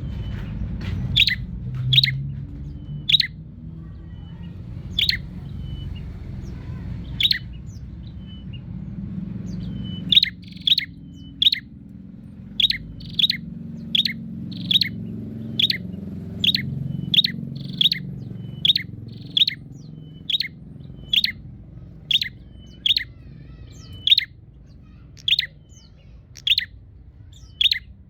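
A prinia (prenjak) giving short, sharp repeated chip calls, at first every second or two, then from about ten seconds in a steady run of roughly one and a half calls a second; the calling is taken as a bird seeking out a rival. A low rumble runs underneath.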